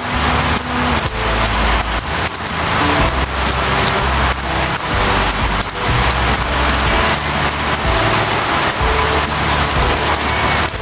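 Heavy rain pelting a car's windscreen and roof, heard from inside the car: a dense, steady hiss of rain with many separate drop hits.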